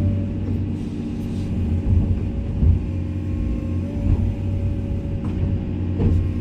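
Komatsu excavator's diesel engine running steadily with a low drone and a steady whine over it, and a few short knocks.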